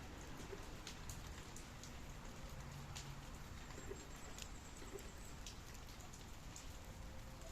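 Steady rain, with scattered drops ticking on nearby surfaces. A few faint, short, low bird calls sound now and then, like a dove cooing.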